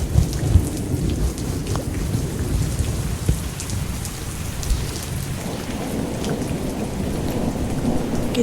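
Thunderstorm ambience: steady rain with scattered drops ticking and a low, restless rumble of thunder underneath.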